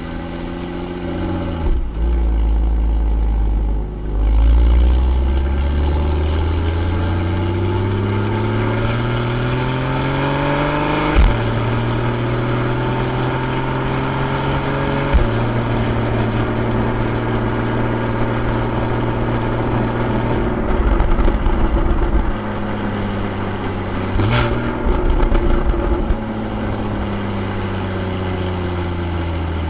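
Porsche 981 Boxster's 2.7-litre flat-six exhaust under way: revs climb for several seconds, drop at an upshift, then run steady with another shift. Near the end a short sharp crack is followed by the revs falling away as the car slows.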